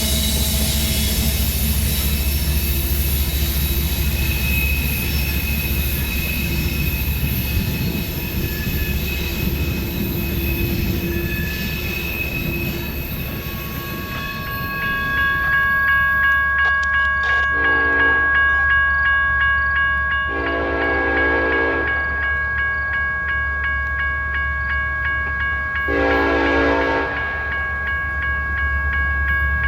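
A freight train running past with steady rail noise, then a diesel locomotive's air horn sounding three separate blasts of about a second or so each in the second half, over steady high-pitched squealing tones.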